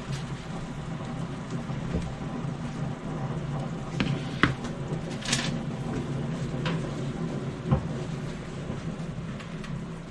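Kitchen handling sounds over a steady low hum: a few light clicks and knocks, a short hiss or scrape about five seconds in, and a louder knock near eight seconds.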